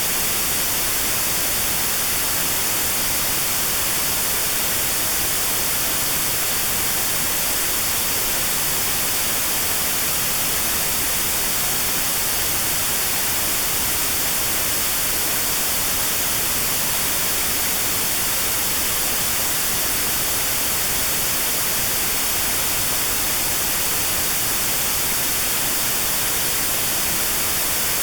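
Steady white noise with a narrow band around 4 kHz filtered out: notched sound therapy aimed at tinnitus at that pitch.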